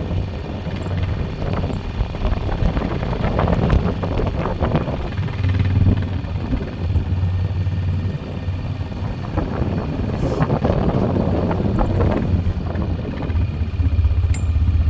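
Four-wheeler (ATV) engine running with a steady low hum, its noise swelling louder twice as it works.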